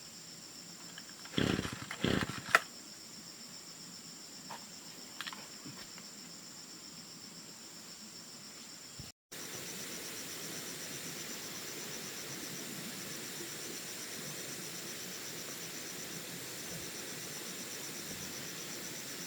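Insects trilling steadily, with a few loud knocks or rustles close by about one and a half to two and a half seconds in. After a sudden cut about nine seconds in, the background is a louder, steady hiss with a fast pulsing insect trill.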